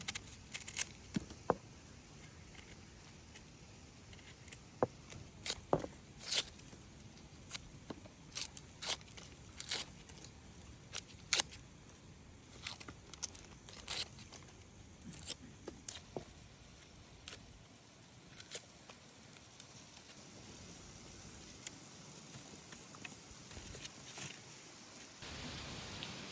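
Scattered short, sharp clicks and taps at irregular intervals, roughly one a second and thinning out in the last third, over a faint steady hiss.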